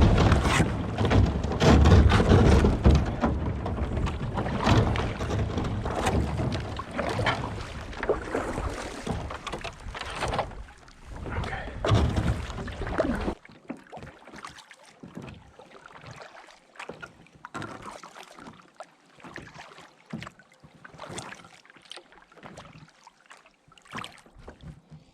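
Kayak hull ramming and pushing through thin creek ice: dense crunching, cracking and scraping for about the first thirteen seconds. Then it cuts suddenly to quieter, scattered knocks and clinks.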